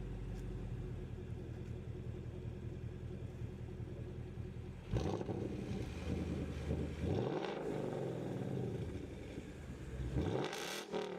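2015 Mustang GT's 5.0 V8 breathing through a freshly installed MBRP Street 3-inch cat-back exhaust, idling steadily, then revved twice: once about five seconds in, the pitch climbing and falling back over a couple of seconds, and again near the end.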